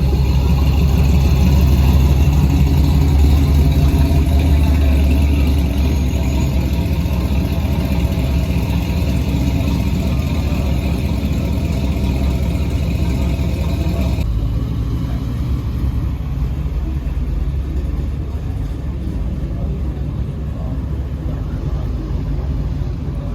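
A car engine running loud and close, strongest in the low end, with a steady beat. About two-thirds of the way through the sound changes abruptly to a quieter engine sound with less high end.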